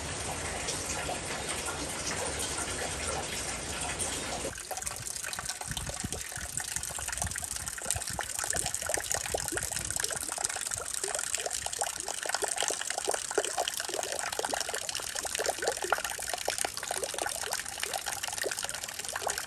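Water trickling and splashing: an even rushing wash for about four seconds, then after a sudden change a quieter, irregular patter of separate drips.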